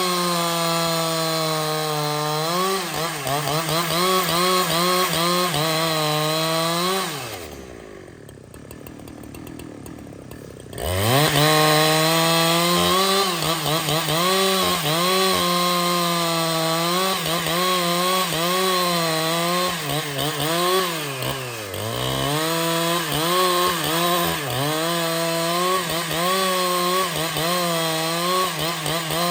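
Two-stroke chainsaw running at full throttle through wood, its pitch dipping and recovering as the chain bogs in the cut. About seven seconds in, the throttle is released and the saw drops to a quiet idle for about three seconds, then revs back up and cuts again.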